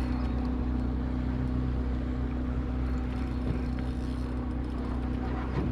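Old Mercury 9.8 two-stroke outboard motor running steadily.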